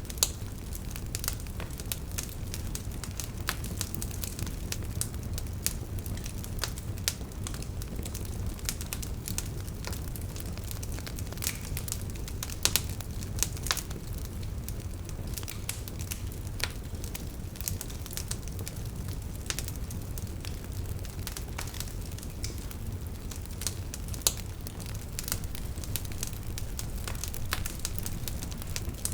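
Campfire burning, with a steady low rumble and many irregular sharp crackles and pops from the burning wood, a few of them louder.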